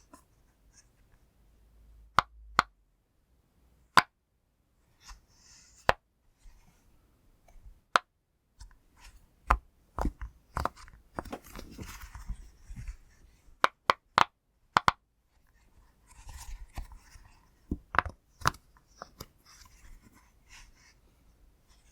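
Pop toy being pressed close to the microphone: sharp, single pops at an uneven pace, roughly one every second or two, with soft rubbing and handling sounds between them.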